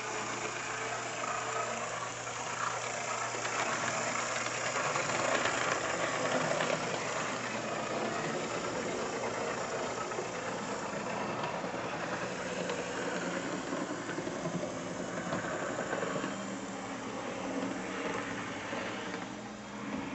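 Tyco Conrail model locomotive running on its track, its small electric motor and gearing making a steady mechanical whirr that swells a little about five seconds in.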